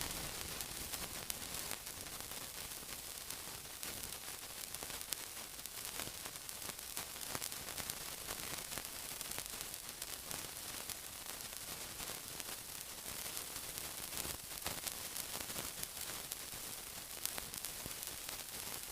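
Steady sizzling hiss, brightest in the highs, dense with fine crackles and pops.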